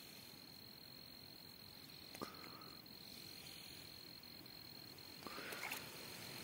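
Faint, steady high-pitched insect trill, with a sharp click about two seconds in and a short rustle a little after five seconds.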